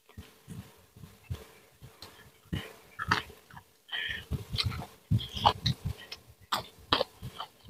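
Close-miked eating: wet chewing and lip-smacking on a mouthful of rice and sambal eaten by hand, heard as an irregular run of small clicks and soft low smacks.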